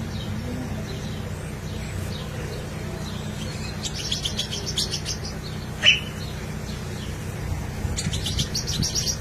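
White-rumped shama calling in two bursts of rapid, high chips, one a little before the middle and one near the end. A single sharp, louder call comes between them, over a low steady hum.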